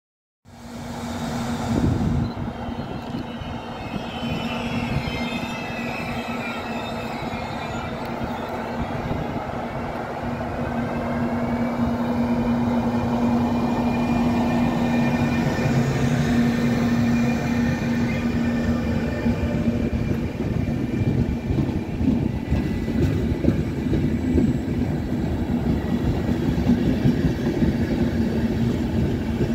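Electric locomotive hauling an Intercity Notte train of passenger coaches moving through the station, with a steady electric hum, whining tones from the traction equipment that glide up and down in the first few seconds, and the rumble of wheels on the rails growing gradually louder.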